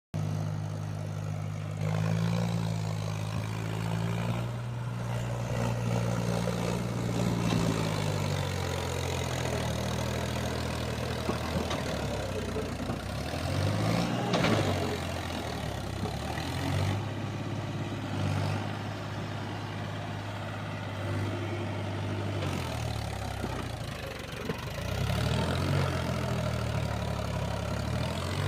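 Tractor's diesel engine running at idle, its pitch rising and falling as it is revved a few times, around the middle and again near the end.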